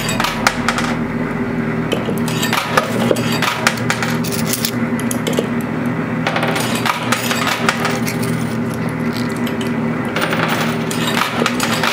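Quarters clinking and clattering in a coin pusher machine as they drop onto the moving shelf and knock against the coins already piled there, many small metallic clicks over a steady hum.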